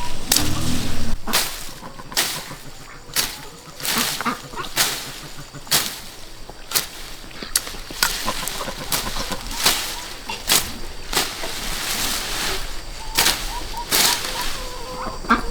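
A hand tool chopping repeatedly, sharp strokes at about one a second.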